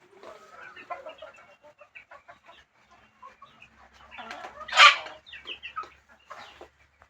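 Chickens clucking, in short broken calls with small tapping sounds, as they feed. About five seconds in there is one louder, harsh squawk-like burst.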